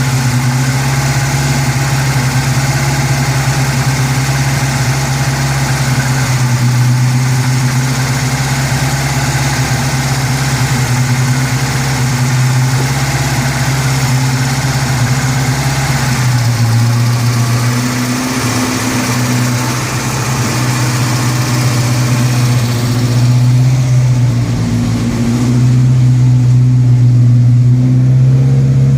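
A newly fitted Volvo engine running steadily on its first run, with a strong steady hum that shifts slightly in pitch now and then and grows a little louder near the end.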